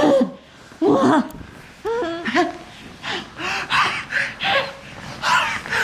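A person's voice making a string of short non-word sounds, gasps, squeaks and chuckle-like noises, about two a second, some sliding up and down in pitch.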